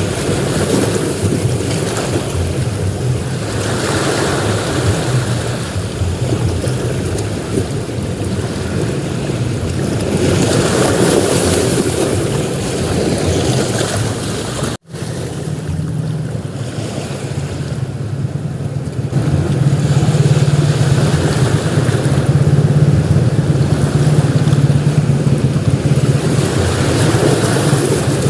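Sea waves surging and breaking on a beach, the surf swelling and falling back every several seconds, with wind rumbling on the microphone. The sound drops out abruptly for an instant about halfway through.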